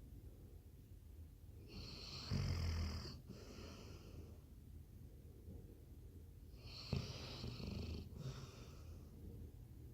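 A Labrador snoring in its sleep: two long snores about five seconds apart, the first one louder.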